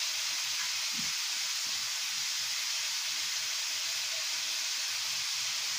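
Sliced zucchini, onion and sausage frying in a pan on a gas stove, a steady sizzle.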